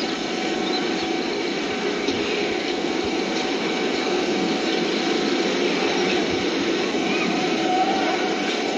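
Steady mechanical rumble of a truck-mounted amusement ride running, with a few faint high-pitched glides over it.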